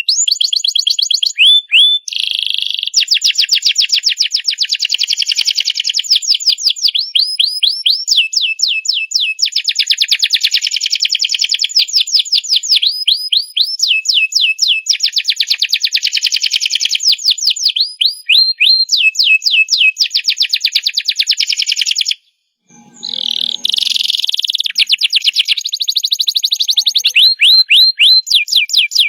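Domestic canary singing a long, loud song of rapid repeated notes and rolling trills with quick up-and-down pitch glides. The song breaks off briefly about two-thirds of the way through, then starts again.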